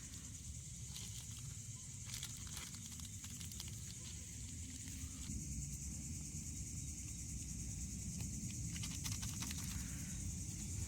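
Campfire crackling and hissing over a low rumble, with clusters of crackles and pops about two seconds in and again near the end.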